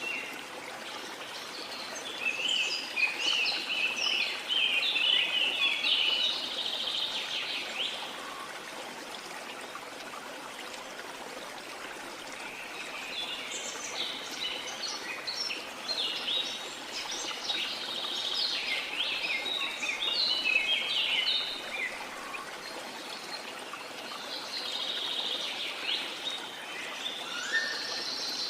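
Small songbirds singing in bursts of rapid, high chirping twitters, with lulls between, over a steady wash of sea water.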